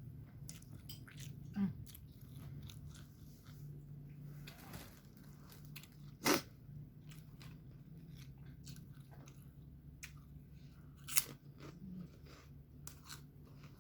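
Close-up chewing and crunching of food in the mouth: many small wet clicks with a few louder, sharp crunches, over a steady low hum.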